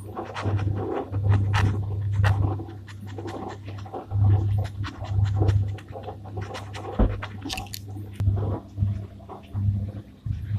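Gel pen scratching and tapping on paper, with a low hum that comes and goes in short stretches.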